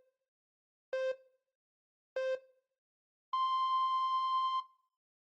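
Electronic countdown beeps in the pattern of a time signal: short, lower pips about a second apart, then one long, higher beep held for over a second.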